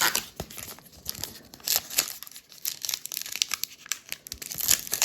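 A trading card pack wrapper being torn open and crinkled, an irregular run of crackling and tearing.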